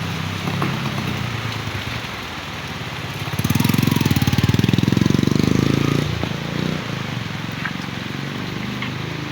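Heavy rain falling, with a motor vehicle's engine running close by. From about three and a half to six seconds in, the engine grows louder with a rapid pulsing beat, then drops back under the rain.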